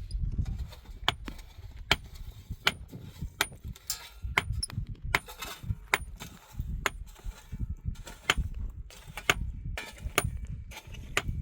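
A series of sharp knocks, about a dozen at uneven intervals of under a second, over a low, uneven rumble.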